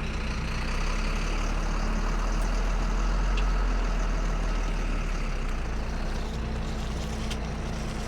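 Tow truck engine running steadily with its PTO engaged to drive the hydraulics, swelling a little in the middle and easing back down.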